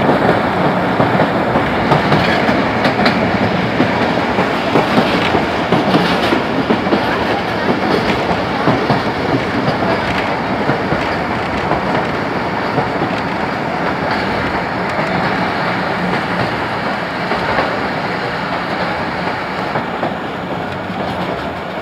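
Train running at speed, heard from inside a carriage: a steady rumble and rattle of wheels on the track, with occasional faint clicks. It eases slightly near the end.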